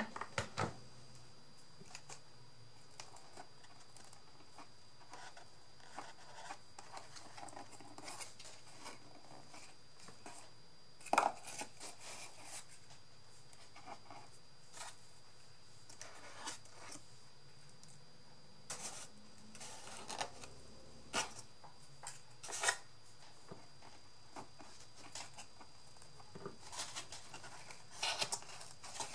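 Hands working small craft pieces: faint, scattered scratching and rubbing noises with a few sharp clicks, the loudest about eleven seconds in and two more a little after twenty seconds.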